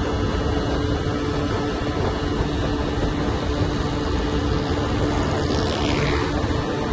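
Yamaha 125ZR two-stroke single-cylinder engine running at a steady pitch while riding, with heavy wind rumble on the microphone.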